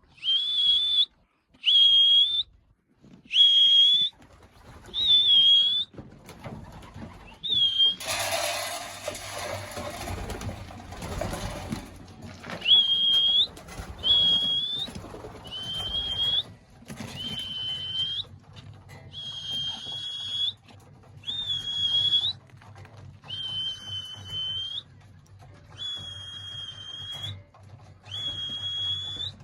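Whistle blown over and over in short, even, high blasts, each sliding up briefly and then holding, about every second and a half: the call that brings racing pigeons down from a loft fly to the trap to eat. A loud rustling burst breaks up the whistling for a few seconds about a third of the way in.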